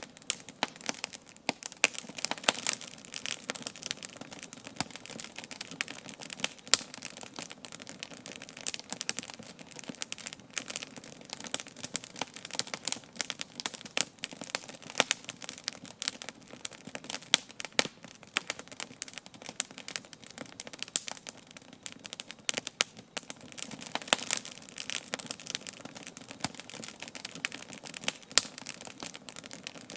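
Wood campfire crackling, with frequent irregular sharp pops over a steady hiss of burning.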